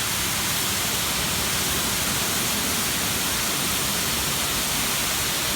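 High-pressure water jets of a touchless car wash spraying against the car body, heard from inside the cabin as a steady, loud hiss.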